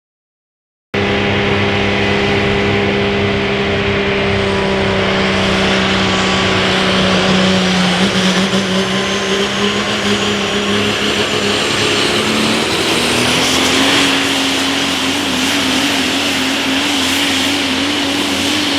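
Multi-turbocharged super stock diesel pickup truck running at full throttle under load while pulling the sled, with a high turbo whistle climbing steadily. The sound cuts in abruptly about a second in, and roughly two-thirds of the way through the engine pitch steps up and wavers.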